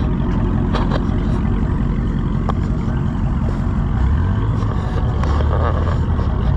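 Car engine running with a steady low rumble, a deeper even hum joining about four seconds in.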